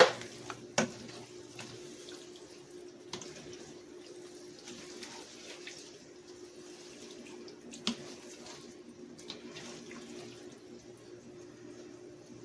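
Chicken hearts sizzling steadily as they sauté in olive oil in a pan, with a few sharp clicks of a utensil against the pan and a low steady hum underneath.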